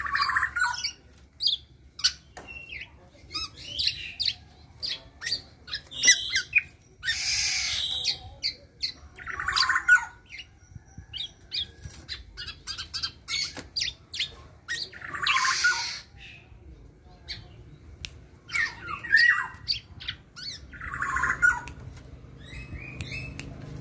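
Young black-naped oriole giving harsh, nasal squawking calls. Several drawn-out calls each last about a second, with short chirps and clicks in between.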